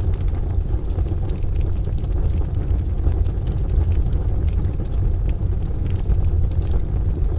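Layered ambience of rain and a crackling wood stove fire: a steady low rumble under a soft wash of rain, with scattered small crackles and pops from the fire.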